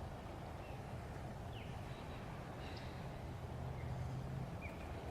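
Outdoor ambience: a steady low rumble with a few short, high, falling bird chirps.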